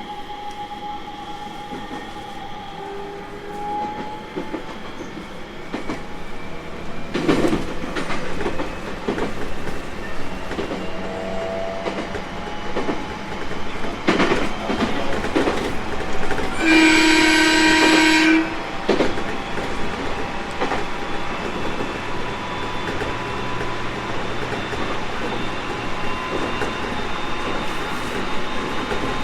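JR East 701 series 1000-subseries electric train running on the line, heard from on board: steady running noise with occasional rail-joint clacks. Just past the middle a train horn sounds one steady blast of about two seconds.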